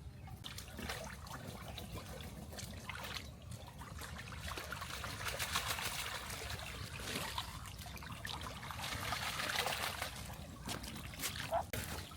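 Water trickling and splashing, with scattered small clicks; it swells twice, around the middle and again later on.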